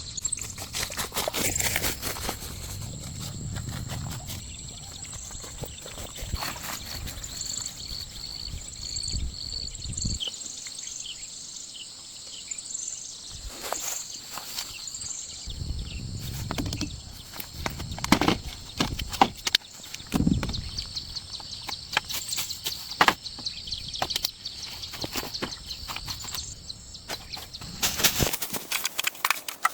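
Outdoor ambience of birds chirping over steady background noise, with scattered footsteps and knocks.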